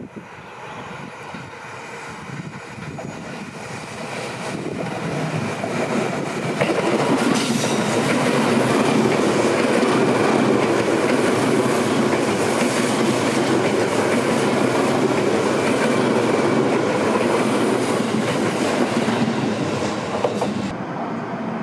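Seibu Railway electric train passing, the rail noise building over several seconds, staying loud for about twelve seconds and falling away shortly before the end.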